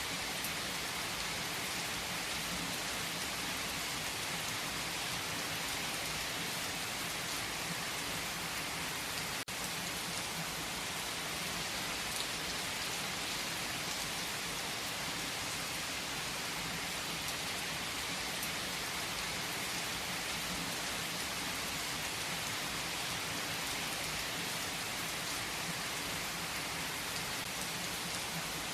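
Steady rain pattering on surfaces as an unbroken hiss. There is a faint click and a momentary dip about nine seconds in.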